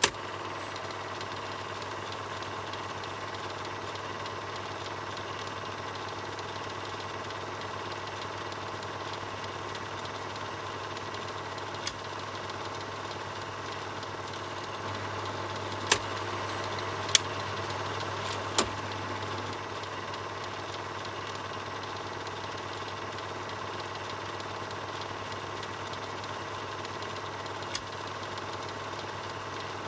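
Film projector running steadily with a low hum, broken by a few sharp clicks, three of them close together about halfway through, where it also gets slightly louder for a few seconds.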